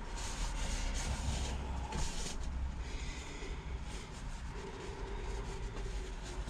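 A rag rubbing oil around a freshly honed cast-iron engine cylinder bore in several short strokes, coating it against flash rust, over a steady low hum.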